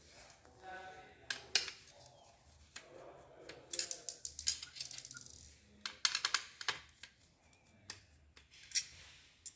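Small screws being unscrewed from the metal bracket of a copier's drive gear assembly: a series of sharp metallic clicks and taps, in clusters, as the screwdriver works and the screws and parts are handled.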